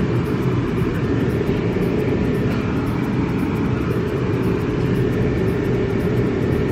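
Steady low rumble of a moving vehicle, with no change in pitch or level.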